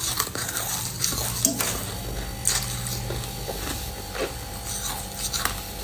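Crushed ice being chewed in the mouth: irregular crunches and small crackles, sparser and quieter than hard bites.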